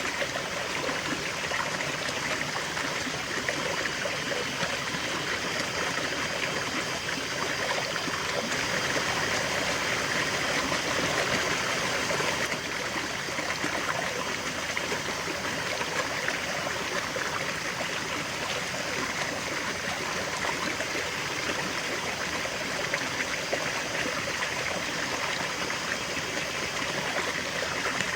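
A river flowing steadily, with a constant rush of water over rocks and a light trickle.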